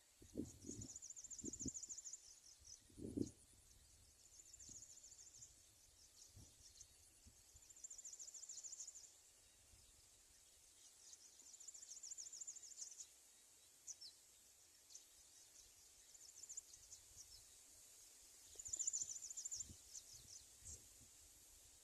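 Faint insect chirping: trains of rapid high-pitched pulses about a second long, repeating every few seconds, with scattered single chirps between them. A few low thumps in the first few seconds, the loudest about three seconds in.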